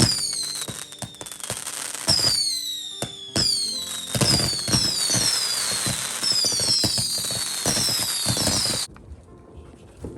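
Fireworks display: repeated whistling fireworks, each whistle falling in pitch, over dense crackling and bangs. It cuts off suddenly about nine seconds in.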